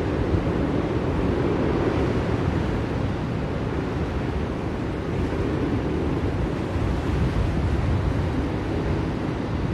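Blizzard wind blowing steadily, a deep rushing noise that swells and eases slightly.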